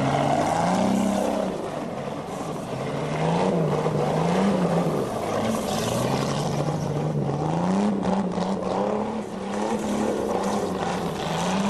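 Modified Chevrolet Chevette's engine revving up and down over and over, about once every second or two, while it spins its rear tyres in burnout donuts, with a constant rush of tyre noise underneath.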